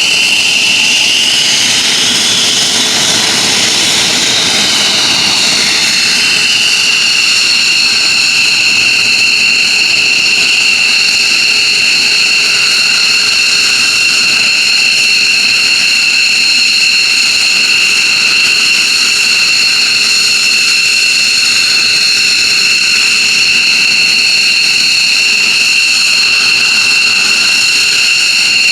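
F-15J Eagle's Pratt & Whitney F100 turbofan jet engines running, a loud steady high-pitched whine over a rushing roar. The pitch of the whine shifts a little in the first few seconds, then holds steady.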